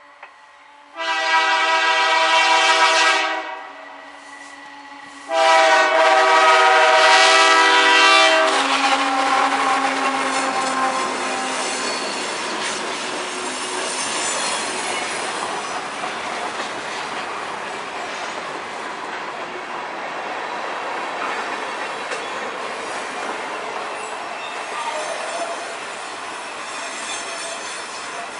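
GE AC4400CW diesel locomotive's air horn sounding two long blasts for a grade crossing. Then the locomotive and its freight cars roll past close by, a steady rumble of wheels on rail that eases off slightly as the train goes by.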